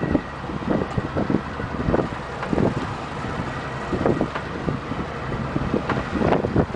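Wind buffeting the microphone in irregular gusts over the steady running of a boat's engine while trolling at sea.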